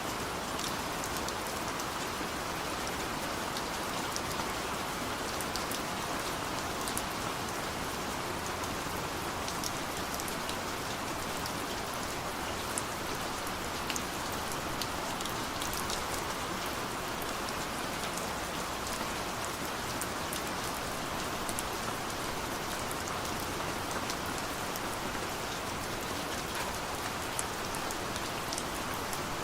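Steady rain falling, an even hiss with scattered distinct drops ticking on surfaces.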